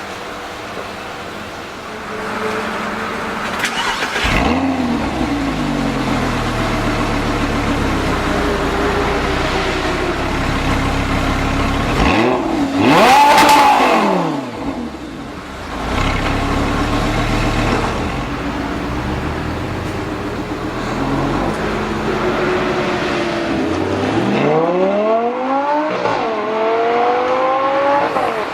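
Lamborghini Gallardo LP570-4 Superleggera's V10 engine revving. There is a rev about four seconds in, then a sharp blip up and back down near the middle, which is the loudest moment. Near the end it accelerates, the pitch climbing, dropping once at a gear change, and climbing again.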